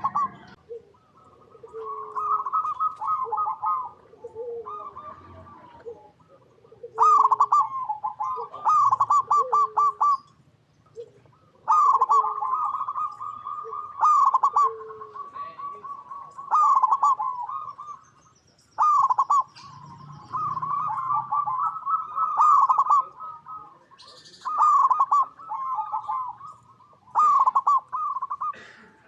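Zebra doves (perkutut) singing their rapid, rolling cooing phrases, one after another with short pauses, some phrases overlapping as several birds call.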